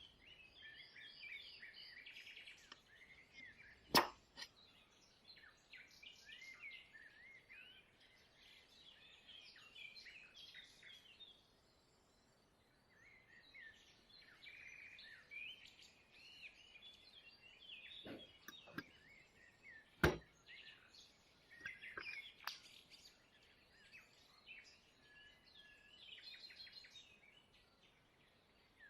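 Small birds chirping and singing steadily, with a few sharp clicks or taps, two of them loud and sudden.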